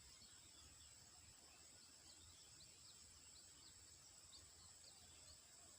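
Faint outdoor ambience: a steady high-pitched insect drone with a run of short, high chirps over a low rumble.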